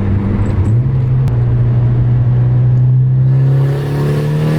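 Car engine pulling under acceleration, its pitch stepping up about a second in and then climbing steadily, with more hiss coming in near the end.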